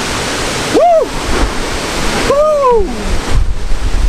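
Waterfall roaring steadily, with two loud rising-then-falling voice calls over it, a short one about a second in and a longer one a second and a half later.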